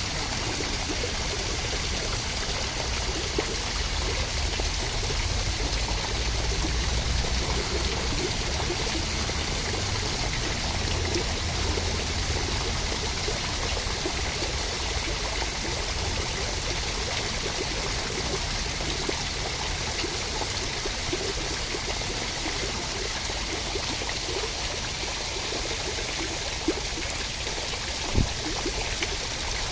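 Steady, even rushing of water, with two faint ticks near the end.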